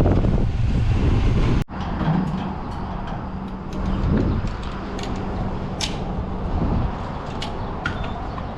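1984 Chevy C20 pickup on the move: a low engine and road rumble that breaks off sharply under two seconds in, then carries on as a steadier, quieter drone with a faint steady hum.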